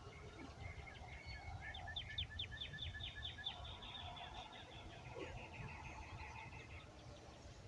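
Wild birds singing, one giving a rapid run of repeated high chirping notes for about five seconds, a little after the start. A low rumble of wind on the microphone runs underneath.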